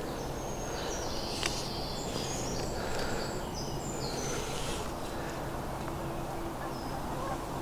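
A small songbird singing a run of high, quick whistled notes through the first half, over a steady outdoor background rumble.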